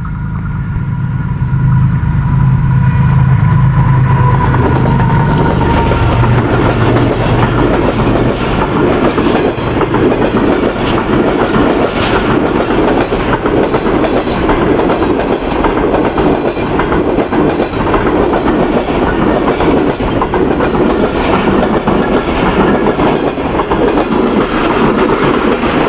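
An express passenger train passing close by at speed, led by a Pakistan Railways GEU40 diesel-electric locomotive. The locomotive's engine is loudest in the first few seconds, then a long rake of passenger coaches rumbles past with the clickety-clack of wheels over rail joints.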